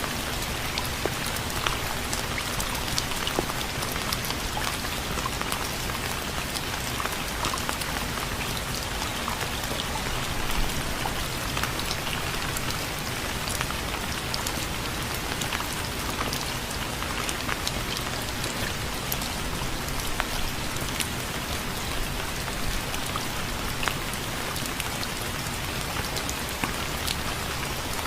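Steady rain falling: a dense, even hiss sprinkled with many small drop ticks.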